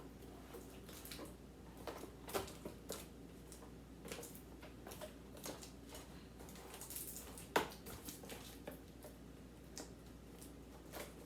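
Faint, scattered clicks and light knocks of food containers and packages being handled while a refrigerator is cleared out, with one sharper knock about two-thirds of the way through and a brief rustle just before it.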